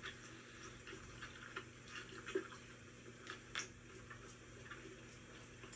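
Faint eating sounds: scattered wet mouth clicks and soft squishes of someone chewing a greasy burger, over a low steady hum.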